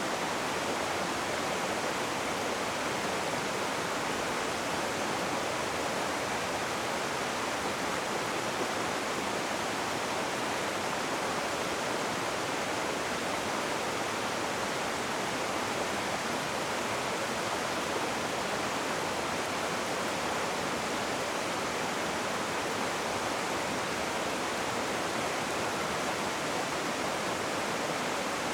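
Rushing water running as a steady, unbroken rush, with no breaks or separate splashes.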